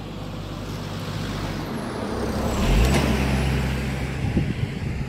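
A car engine running with a steady low note. It grows louder to a peak about three seconds in and then eases off.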